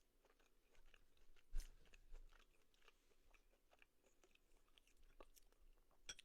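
Faint chewing of steak, small wet clicks of the mouth, with one louder knock about a second and a half in.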